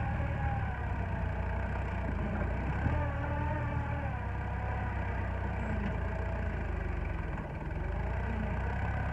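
Engine of the machine used to move the truck body, running steadily, its pitch wavering slightly up and down as it works against the load.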